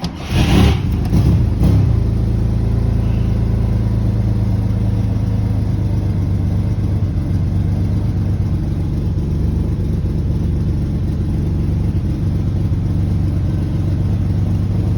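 1964 Chevrolet Corvair's air-cooled flat-six cold-starting after sitting for three or four days: it fires almost at once, runs unevenly for about two seconds, then settles into a steady idle.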